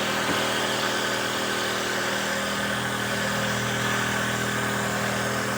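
Homemade wooden dowel-making machine running steadily, its motor giving an even, unbroken hum.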